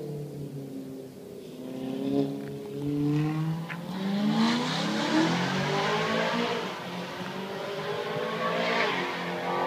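BMW M3 E92's V8 engine through a Supersprint aftermarket exhaust, the revs rising and falling several times, with a longer, louder climb about four seconds in.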